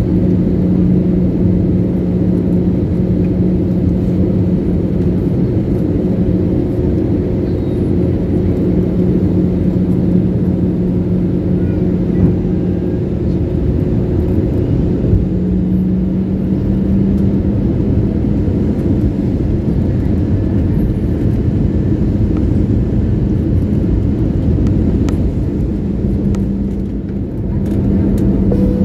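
Airliner engines heard from inside the passenger cabin during the approach to landing: a loud, steady drone with a low hum that steps slightly higher about halfway through and again near the end as engine power is adjusted.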